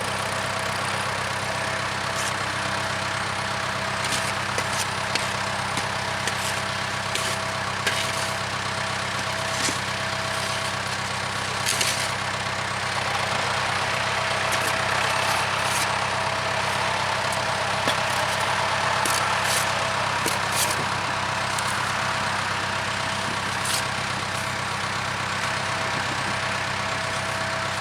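Case 580K backhoe's diesel engine running steadily while it digs, with scattered knocks and scrapes of the bucket working in dirt and gravel.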